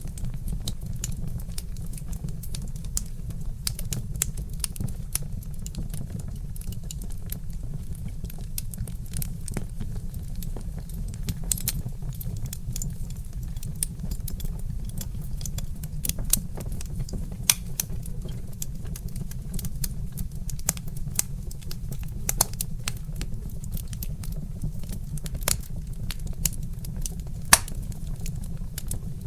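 Wood fire crackling: frequent sharp pops and snaps from burning logs over a steady low rumble, with a few louder pops in the second half.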